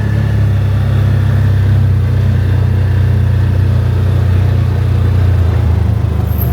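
Car driving at speed: a steady, heavy low rumble of wind and engine noise.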